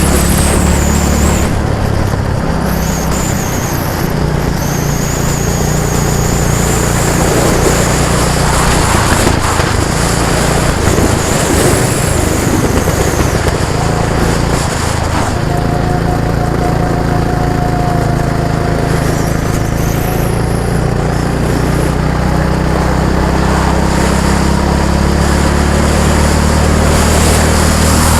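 A motor vehicle's engine running steadily close by, its pitch shifting a few times as the speed changes.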